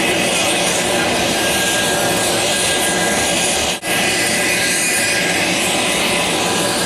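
Business jet's turbofan engines running loud and steady, a dense rushing noise with a faint high whine, cut out for an instant about four seconds in.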